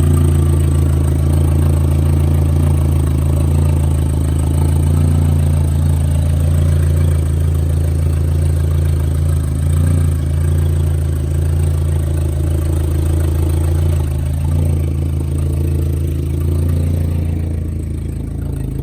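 VW 1.8T turbocharged four-cylinder engine, fitted with a big T3/T4 turbo, idling steadily and a little loud.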